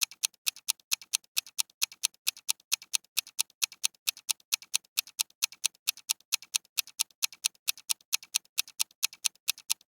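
Countdown timer sound effect: a clock ticking evenly at about four ticks a second.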